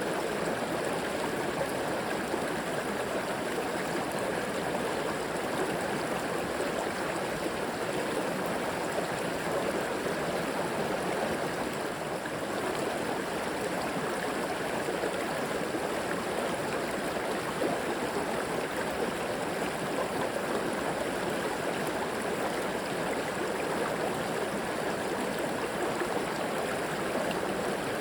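River water flowing and rushing steadily over rocks, a constant even babble.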